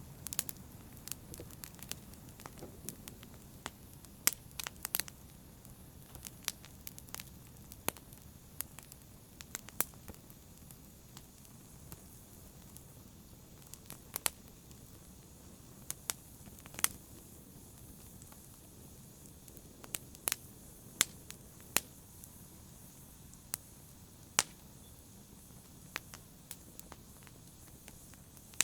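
Wood fire crackling in a fireplace: sharp, irregular pops and snaps over a low, steady hiss of burning.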